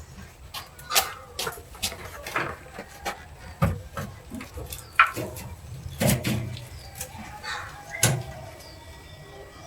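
Irregular knocks and clicks, a dozen or so spread over several seconds with a few louder ones among them, like parts and tools being handled.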